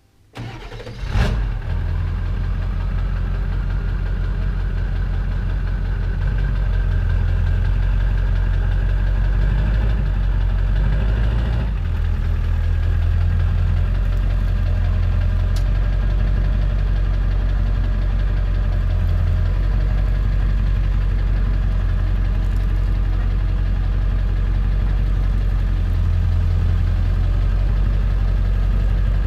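Pickup truck engine starting about a second in, then running steadily at idle.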